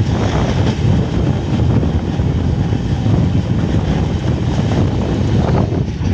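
Moving train running along the track: a loud, steady low rumble with no break.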